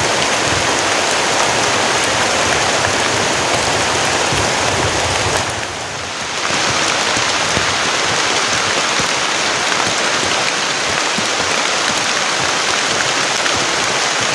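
Heavy rain pouring steadily in the forest, a dense even hiss that dips briefly for about a second near the middle.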